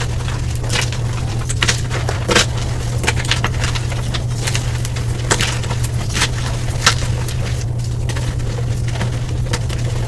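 Blocks of gym chalk being crushed and crumbled, played back at double speed: a dense run of irregular dry crunches and crackles, a few sharper snaps standing out, over a steady low hum.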